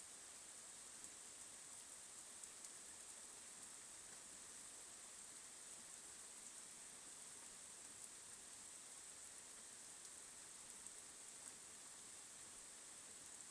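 Faint, steady rain hiss with scattered small ticks of drops.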